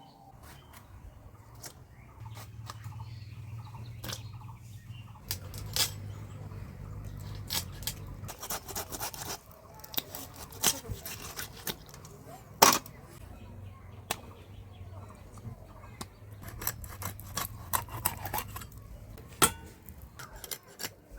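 Food being cut with a blade: a steady rasping scrape under irregular sharp clicks and knocks, with one loud knock about two-thirds of the way through.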